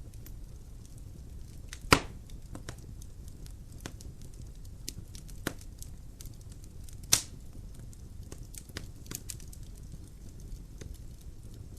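Logs burning in a fireplace, crackling with many small snaps over a low rumble of the fire, and two loud pops about two seconds and seven seconds in.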